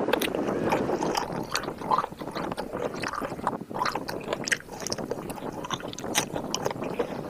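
Wet chewing and lip smacks of soft, syrup-soaked gulab jamun eaten by hand: many irregular smacking clicks, with squishing of syrup as fingers dip into the bowl near the end.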